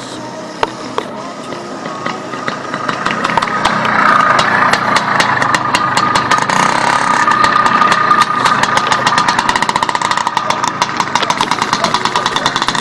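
IZh Planeta Sport motorcycle's single-cylinder two-stroke engine running. It grows louder over the first few seconds, and its firing beat quickens near the end as it revs up. The engine is not yet run in.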